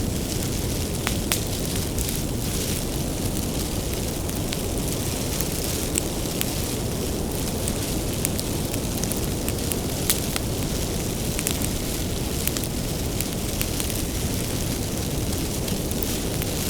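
Firewood bonfire crackling: frequent sharp, irregular pops and snaps over a steady low rumble of burning.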